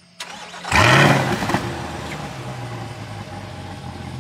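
Chevrolet Corvette C8's V8 starting up: a short crank, then the engine catches with a loud rev flare just under a second in and settles into a steady idle.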